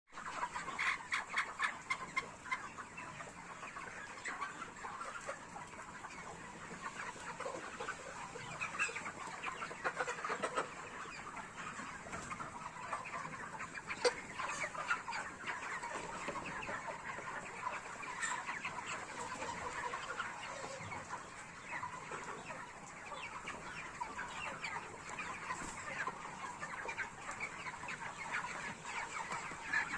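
A large flock of forty-day-old broiler chickens clucking and chattering continuously, many birds calling over one another.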